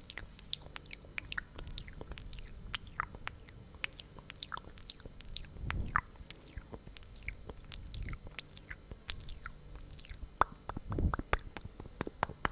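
Sticky, wet lip smacking and mouth clicks from lips coated in thick lip gloss, right at the microphone: a fast, irregular run of small pops and clicks with a few heavier soft thuds.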